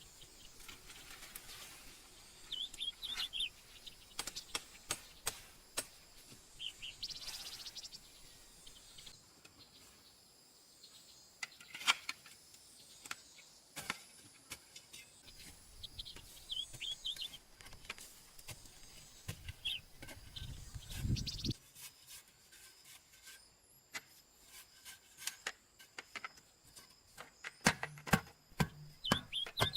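Small birds chirping in short repeated phrases over a steady high insect hum, with scattered sharp knocks and clicks throughout and a low rumbling thud about two-thirds of the way in.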